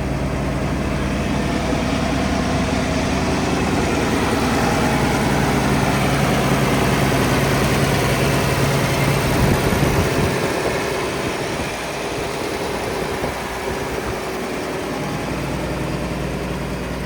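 1972 John Deere 4620's turbocharged six-cylinder diesel engine running steadily at idle; it grows slightly louder toward the middle and then eases off a little after about ten seconds.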